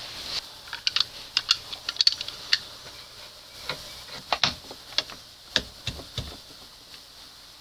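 Hand pop-rivet tool squeezing a rivet home in the outboard's metal part: a string of sharp, irregular metallic clicks, loudest in the first two seconds and dying out about six seconds in.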